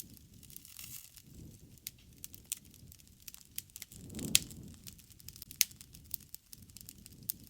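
Campfire crackling: wood burning with irregular sharp pops over a soft low rumble of flame, the loudest pop about four seconds in.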